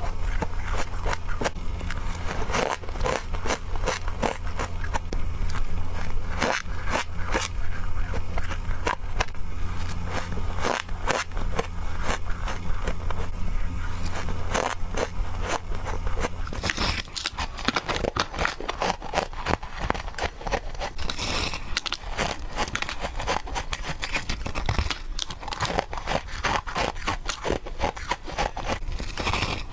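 Rapid biting and crunching of freezer frost, a quick run of crisp crunches close to the mouth. A low steady hum runs underneath and stops a little past halfway.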